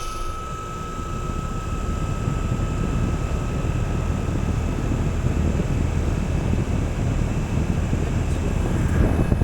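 Outdoor air-conditioner condenser units running, their fans pushing air in a steady low rumbling rush that swells briefly near the end.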